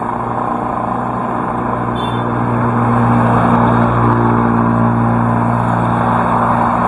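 Heavy rain falling steadily, with a motor vehicle's engine humming through it, growing louder about three seconds in and then easing off.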